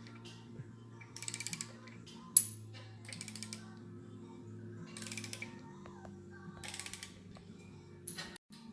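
Ratchet wrench clicking in four short rapid bursts as engine cylinder head bolts are turned down. A single sharp metallic click a little after two seconds in is the loudest sound. Steady background music plays underneath.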